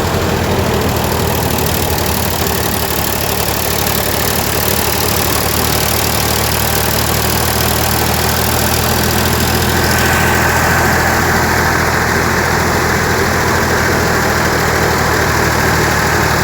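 Sonalika tractor's diesel engine running steadily, with the drum of a thresher hooked up to it. A higher steady hum joins about ten seconds in.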